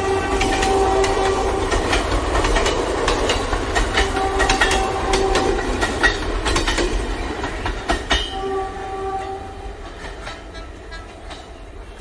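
A train running with its horn sounding three times in long held blasts, over a low rumble and the clatter of wheels on rails. The sound grows quieter over the last few seconds.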